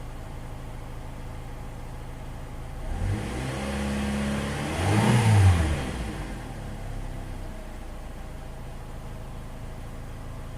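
2005 Chevy Cobalt's 2.2-litre four-cylinder engine idling. About three seconds in, the revs climb, peak near the middle and drop back to a steady idle.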